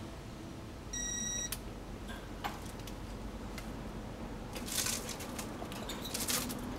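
Ceiling fan running steadily at one of its speeds, with a short, high electronic beep about a second in and a few brief clicks later on.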